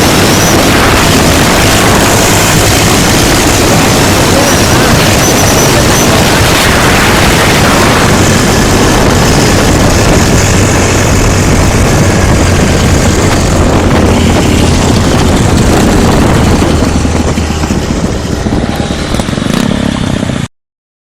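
Custom-built motorcycle's engine running steadily under heavy background noise, fading over the last few seconds and then cutting off abruptly.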